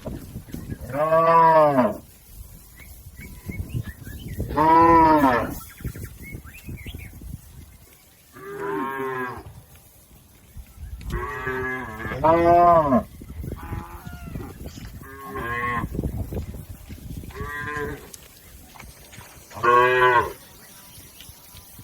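Village cattle mooing again and again, about nine calls, each lasting up to a second, with a few seconds between most of them and a quicker run of short moos in the middle.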